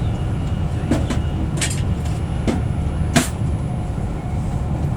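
Steady low rumble of a Virgin Trains Class 390 Pendolino electric train running on the rails, heard from inside the carriage, with four sharp clicks scattered through it.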